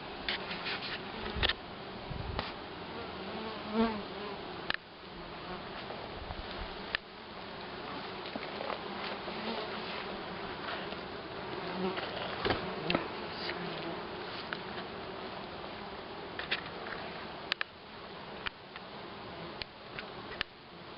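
Honeybees buzzing in a dense, continuous drone around an opened colony in a woven-straw sun hive, with a few short light knocks scattered through.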